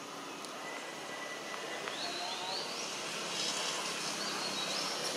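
Outdoor woodland ambience: a steady hiss with a bird giving several short, high, rising calls in the second half.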